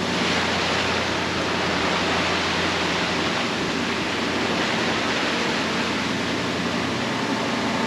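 Steady rushing noise of wind and sea water around a yacht under way, with a low, even engine hum beneath.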